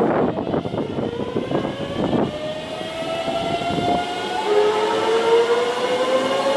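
Electric train on the Tobu Nikko Line pulling away, its motors giving a whine that climbs steadily in pitch as it gathers speed, over the rumble of the wheels.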